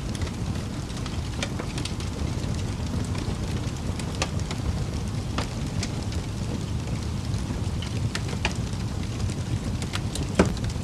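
Wood fire burning in a fireplace: a steady low rumble of flames with scattered sharp crackles and pops at irregular intervals. The loudest pop comes near the end.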